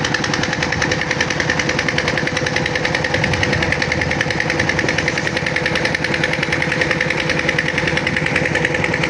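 1980s tractor engine running steadily at constant speed: a fast, even clatter of firing pulses over a steady hum.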